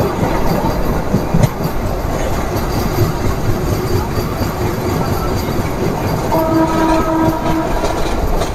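MEMU electric passenger train running along the track, wheels rumbling and knocking over the rails. About six seconds in, a train horn sounds for about a second and a half.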